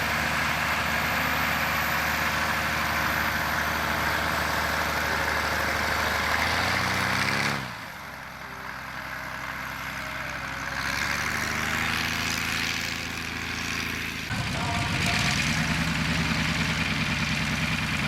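WWI fighter aircraft's piston engine running steadily. About seven seconds in it revs up, then drops sharply to a quieter setting, and near fourteen seconds it picks up again with a sudden step.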